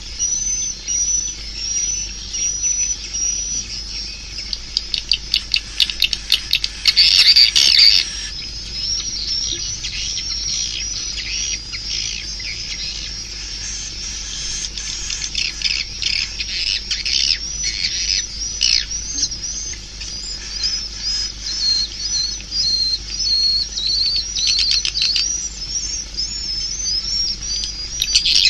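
Swiftlet calls: a steady stream of short, high chirps, broken by fast rattling clicks about five seconds in and again near the end. It is a swiftlet call track, the kind played from tweeters to draw swiftlets into a nesting house.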